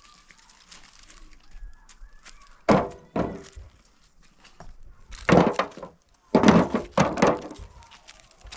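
Several heavy wooden thuds and knocks in irregular clusters a few seconds apart, like wood being struck or broken.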